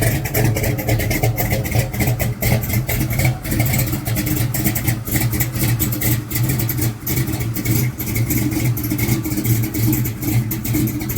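Big-block V8 car engine idling with a loud, choppy exhaust note.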